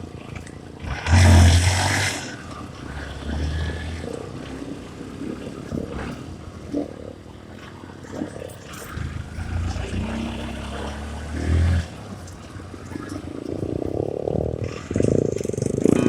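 Honda CRF150 dirt bike's single-cylinder engine running unevenly while riding, swelling with the throttle at times. There is a loud rushing burst about a second in.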